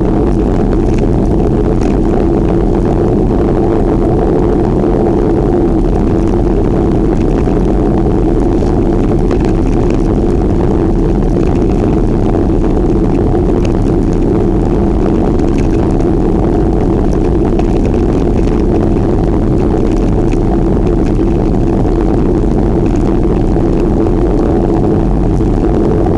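Steady, loud rumble of wind buffeting the microphone while riding a bicycle, unbroken and without change.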